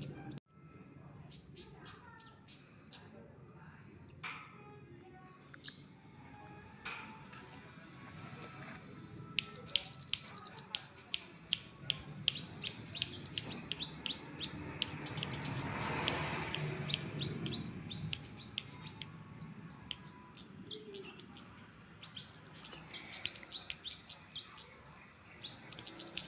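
A kemade songbird singing in the fast 'petetan' style: short, high, down-slurred chirps, spaced out at first, then quickening about ten seconds in into a long, rapid run of repeated chirps.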